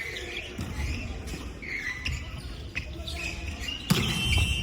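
Volleyball being played in a gym: sneakers squeak on the court floor, and a ball strikes hard about four seconds in, ringing in the hall.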